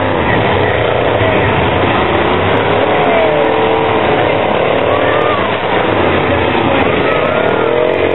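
Demolition derby trucks' engines revving over and over, their pitches rising and falling several times over a constant loud din of engines and crowd.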